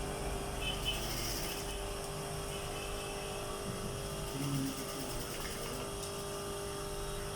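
Industrial sewing machine running with a steady hum while stitching.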